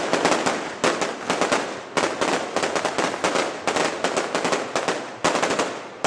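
Fireworks display: rapid volleys of sharp bangs and crackles, several a second, coming in quick clusters over a continuous crackling haze.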